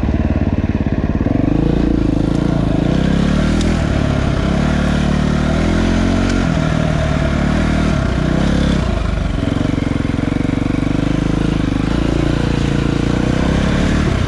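Dirt bike engine running under way on a trail, its revs dipping and climbing again several times with the throttle and gear changes.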